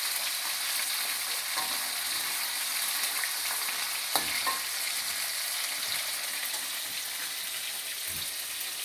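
Fish frying in hot oil in a pan: a steady sizzle with scattered small crackles and one sharp click about four seconds in.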